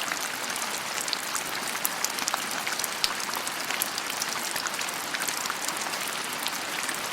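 Falling water: a steady splashing rush full of small droplet-like crackles, starting suddenly.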